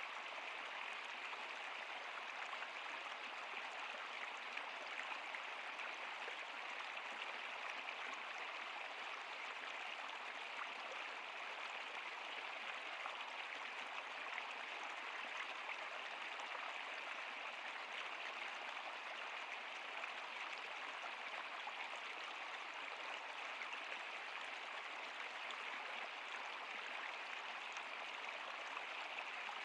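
Running water of a stream, a steady even rush with faint small splashes throughout.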